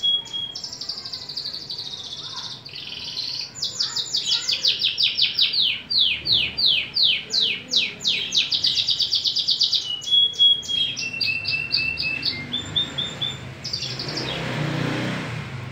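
Canary singing a long song of fast trills and repeated whistled notes, each phrase a string of identical notes before switching to the next. Near the end the song gives way to a short noisy burst.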